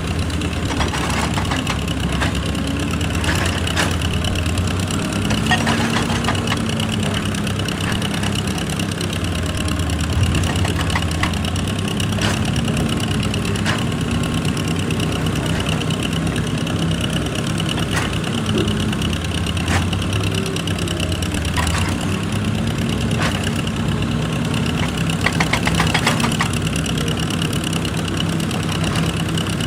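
Excavator's diesel engine running steadily, its note bending slightly now and then, with scattered sharp knocks and scrapes of rock throughout.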